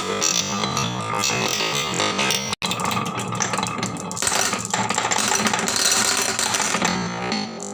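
Synthesizer background music with a steady, busy texture, cutting out for an instant about two and a half seconds in. Under it, marbles clatter along a wooden marble-run track.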